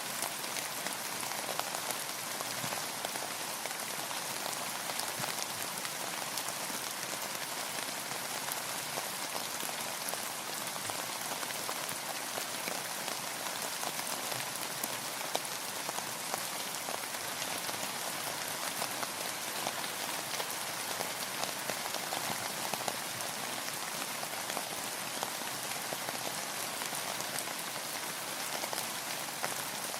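Steady rainfall, a dense even hiss of drops with fine individual drop taps throughout.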